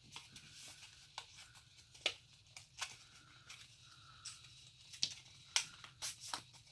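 Faint rustling of plastic retail packaging, with scattered light clicks and taps, as mechanical pencils are slid out of their packs.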